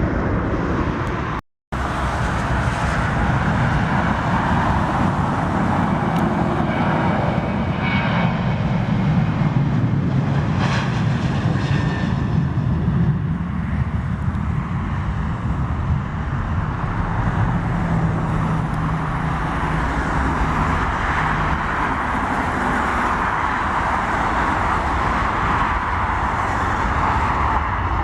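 Jet aircraft engines running, a steady loud rush of noise that cuts out for a moment about a second and a half in.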